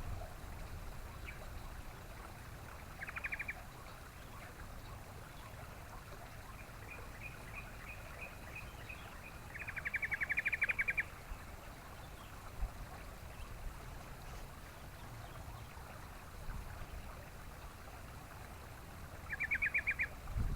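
Yellow-vented bulbul giving short, rapid chattering phrases a few times, the loudest about ten seconds in, over a low steady background rumble.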